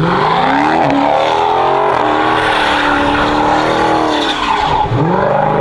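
Dodge Hellcat's supercharged V8 revving hard and held high through a burnout, tyres spinning and squealing. The revs drop briefly near the end, then climb again.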